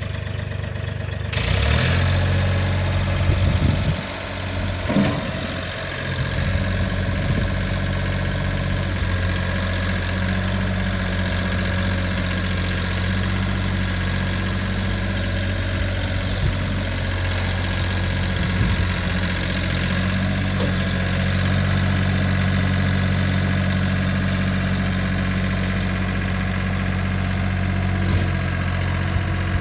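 John Deere 4310 compact tractor's three-cylinder diesel engine running, with louder uneven engine noise in the first few seconds before settling into a steady idle. A single sharp knock sounds about five seconds in.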